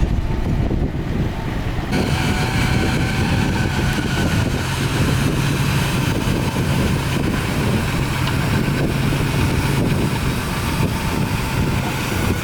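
Heavy earthmoving machine's diesel engine running steadily with a deep rumble. About two seconds in, a rougher, hissing layer of noise joins it and carries on.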